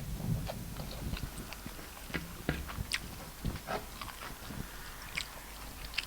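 Close-miked eating: a person chewing a mouthful of rice and snail stew, with scattered wet mouth clicks and lip smacks.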